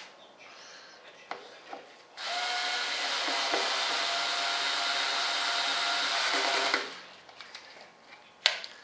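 A small electric motor with rushing air, like a blower or heat gun, switches on about two seconds in, runs steadily for about four and a half seconds and then stops; light clicks and knocks of handling come before and after.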